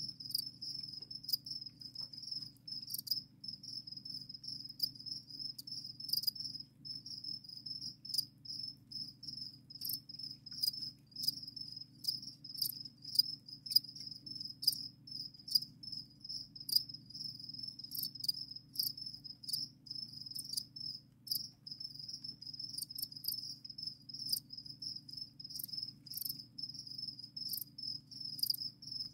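Crickets in a breeding colony chirping continuously, a steady high trill of rapid repeated pulses, with scattered faint ticks.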